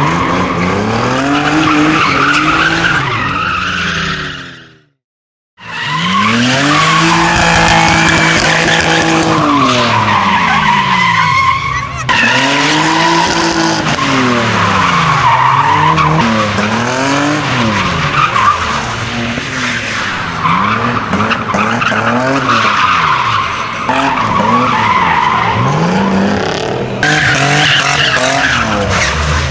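Toyota Supra Mk3's straight-six engine revving up and falling back again and again as the car drifts, with tyres squealing over it. The sound cuts out briefly about five seconds in.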